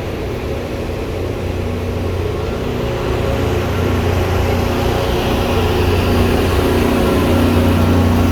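Steam-hauled passenger train running, a steady low rumble that grows louder.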